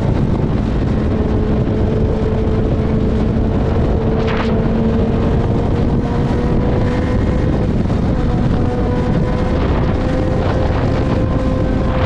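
Suzuki GSX-R1000 inline-four engine running at a steady cruise, its pitch creeping slowly upward, under heavy wind rush.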